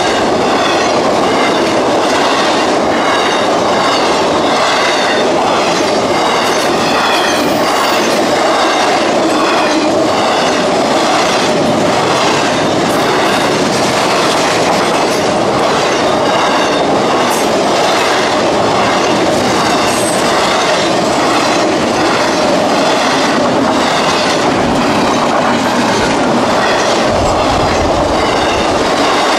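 Freight train cars rolling past, their wheels clacking steadily over the rail joints, with a brief high wheel squeal now and then.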